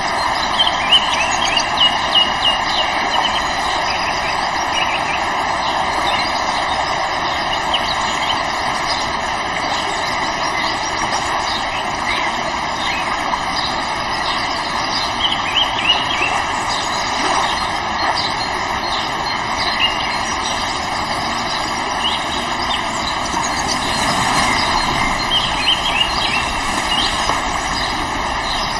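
River water flowing with a steady rush. Short high bird chirps come through a few times, near the start, midway and near the end.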